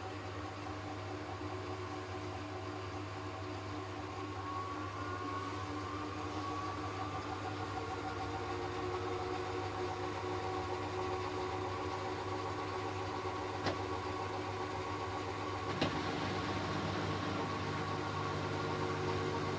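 Hoover H-Wash 600 integrated washing machine starting a spin-and-drain cycle: a steady low hum under a motor whine that rises in pitch as the drum speeds up, then holds steady. Two sharp clicks come about two-thirds of the way through, after which a further low hum joins in.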